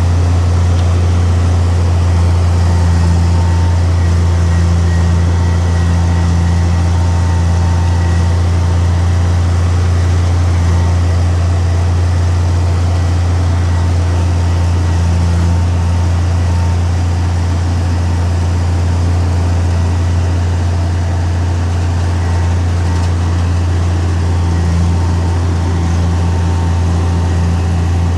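Heavy diesel engine of an earthmoving machine running steadily with a deep, unbroken drone.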